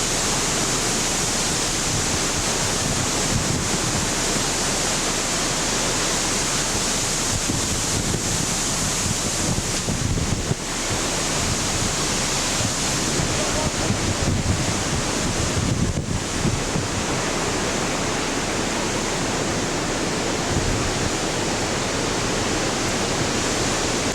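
Hurricane wind rushing and buffeting the camcorder microphone in a steady noise, with gusty low rumbles rising and falling throughout.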